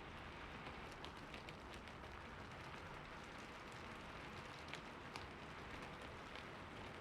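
Heavy rain falling steadily, with individual drops ticking sharply now and then over the even hiss.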